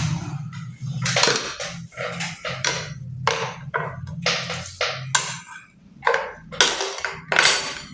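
Irregular knocks and clatter, about a dozen in all, from hands working on a small domestic sewing machine during reassembly, some knocks ringing briefly.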